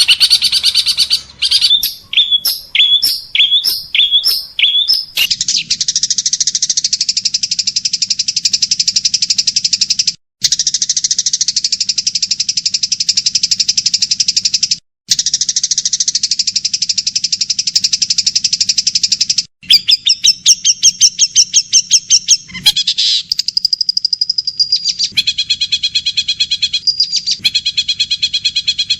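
Recorded songbird song spliced into a medley: a run of about six sharp chirps, then long rapid buzzy trills, broken by abrupt silent cuts at the joins, then quicker chirp series and more trills.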